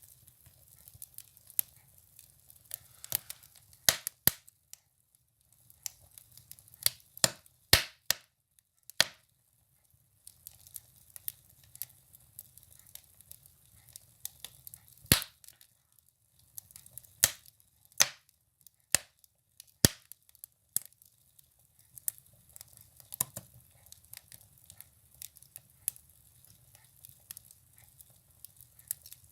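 Firewood burning in a stove, crackling with irregular sharp pops and snaps, one of the loudest about halfway through.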